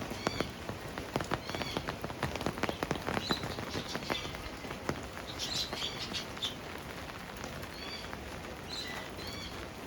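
Birds calling with short, high, arching chirps, repeated every second or so, over a pattering of small ticks that thins out about halfway through.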